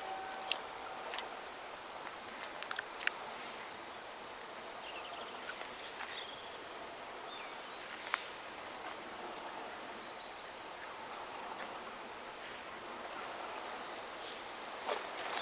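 Small birds chirping and trilling in short high phrases over a faint outdoor background, with a few sharp clicks.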